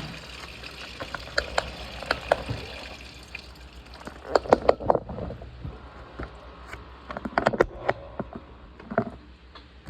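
Washing machine filling with water, a steady hiss of inflow that fades about three seconds in. Then come two clusters of sharp clicks and knocks from the machine.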